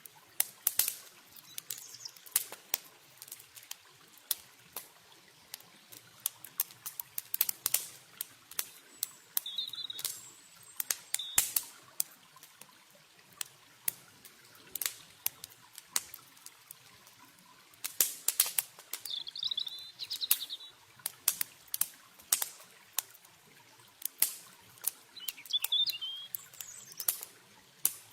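Campfire crackling, with sharp irregular snaps and pops of burning wood. A small bird chirps in three short bursts over a faint background of running water.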